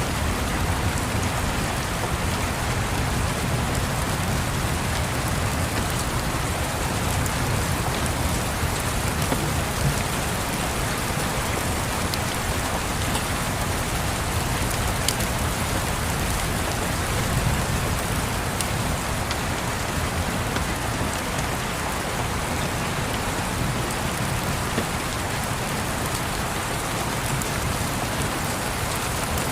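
Steady rain falling, an even hiss with a few faint, sharp ticks scattered through it.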